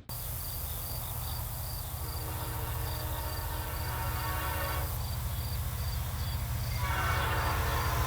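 Distant horn of an approaching Illinois Central SD70 freight locomotive sounding for a grade crossing, one blast from about two seconds in to about five seconds, and another louder one starting near the end, over a steady low rumble. A high, rapidly pulsing chirp, like insects, continues in the background.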